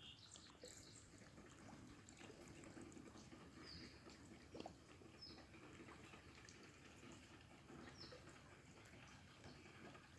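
Near silence: faint outdoor ambience with three faint, short bird chirps spaced a couple of seconds apart.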